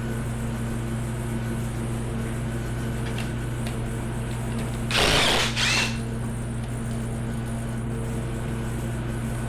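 A power tool runs in a short burst, two quick pulls about half a second long in all, around five seconds in, most likely running out valve-cover bolts. Under it a steady low hum goes on throughout.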